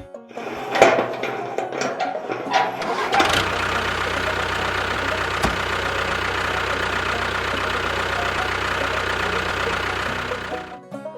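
An engine cranking with irregular knocks for about three seconds, catching, then running steadily until it cuts off abruptly near the end.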